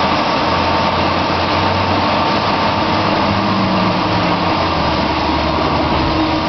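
Cosen SH-700DM semi-automatic double mitre bandsaw running: a steady, even machine noise with a constant whine and a low hum.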